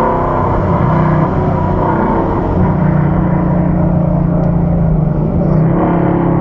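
2015 Mustang GT's 5.0-litre V8 running steadily at a light cruise around 60 mph, heard from inside the cabin.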